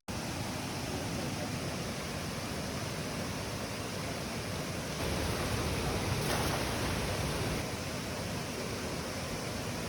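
Steady rushing noise with no distinct events, swelling a little around the middle.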